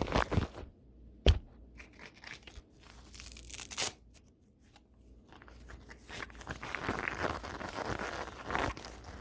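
A brush swept hard and fast across the camera and its microphone, making scratchy, crackling strokes. There is a sharp knock about a second in and a hissing sweep near four seconds, then a fast, dense run of strokes from about six seconds.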